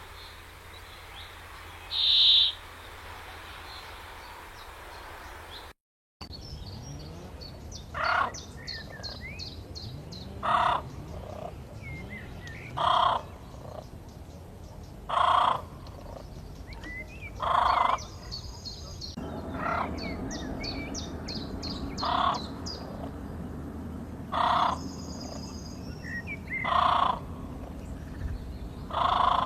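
Birds calling. One short high call comes about two seconds in. After a break about six seconds in, a louder call repeats roughly every two and a half seconds over rapid, high chirping from smaller birds.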